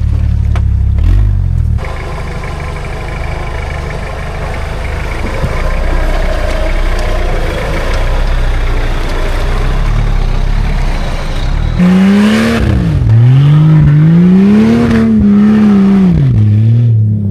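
Old Jeep Cherokee working over off-road terrain: the engine runs at low revs under a rushing, clattering noise. For the last few seconds the revs rise and fall several times as the throttle is worked.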